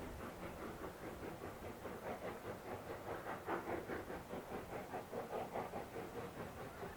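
Steam locomotive working along the line, a quick, even rhythm of beats over a low rumble, growing louder towards the middle and easing slightly after.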